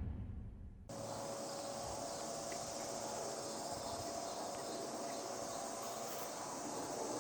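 Steady outdoor background with a high, even insect-like drone, beginning abruptly about a second in after the fading tail of a louder sound.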